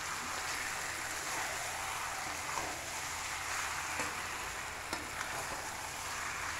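Chicken pieces frying in oil in a wide steel pan: a steady sizzle, with a spatula stirring through the pieces and a few light taps against the pan.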